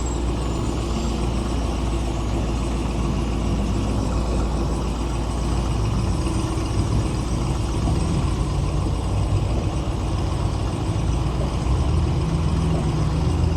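Steady city street traffic: vehicle engines running, with a low engine rumble swelling near the end.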